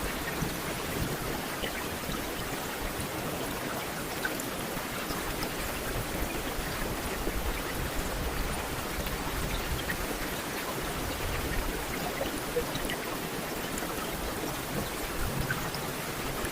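Steady rain falling, an even hiss with small scattered drop ticks, unchanging throughout.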